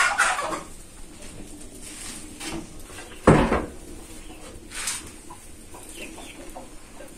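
Hand-shaped pieces of biscuit dough being set down on a metal baking tray and pressed on a wooden board: a few knocks and thuds, the loudest and deepest about three seconds in. Birds call faintly in the background.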